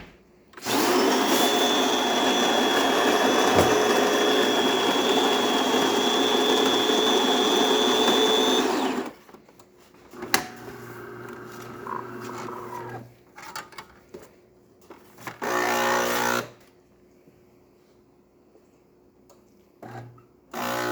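DeLonghi Magnifica super-automatic espresso machine's built-in burr grinder grinding coffee beans for about eight seconds, a steady loud grind with a high whine. Then the machine's brew unit clicks and whirs into position, and its pump hums briefly and starts again near the end as the shot begins.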